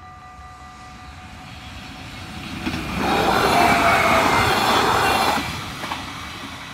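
Level-crossing warning bells ringing steadily, stopping about a second in. Then a multiple-unit passenger train passes close across the crossing: wheel and running noise builds from about two and a half seconds in, stays loud for about two and a half seconds with a faint wheel squeal, and drops away quickly, followed by a couple of wheel clicks over the rail joints.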